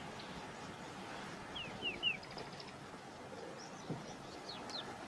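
Birds calling: a quick run of three short, falling whistled chirps about two seconds in and two more near the end, over a steady outdoor hiss.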